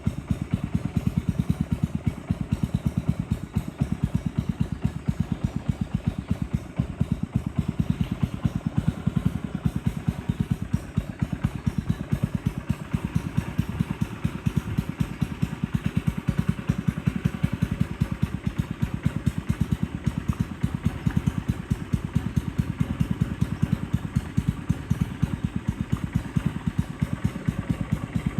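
A boat's engine running steadily under way, with a fast, even pulse.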